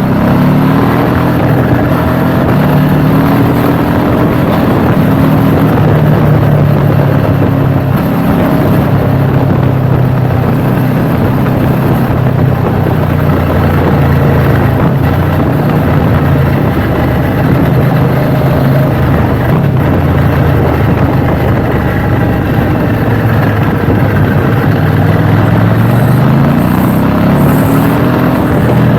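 KTM 790 Duke's parallel-twin engine running as the motorcycle rides along, over a steady rush of noise. Revs climb briefly near the start and again near the end.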